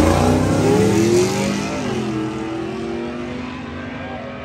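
Drag-race vehicle accelerating hard away down the strip, its engine pitch climbing, dropping at a gear change about a second and a half in, then climbing again as the sound fades into the distance.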